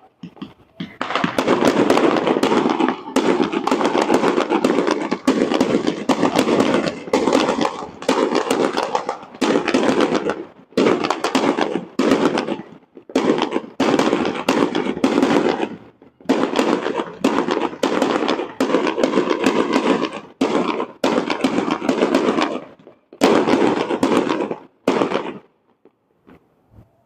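Fireworks display: loud, rapid volleys of bangs and crackling, packed close together with brief pauses, that stop abruptly about 25 seconds in.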